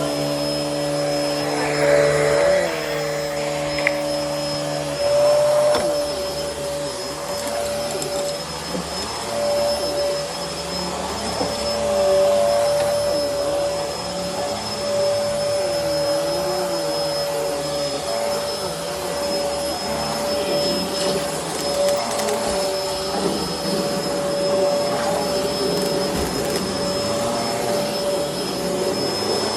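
Bissell Helix vacuum cleaner running steadily, with a constant motor whine and lower tones that waver up and down. About five seconds in, some of the lower hum drops away.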